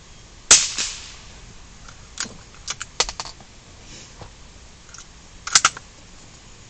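A single gunshot about half a second in, with a short decaying tail, followed by a run of sharp mechanical clicks over the next few seconds and a quick cluster of clicks near the end.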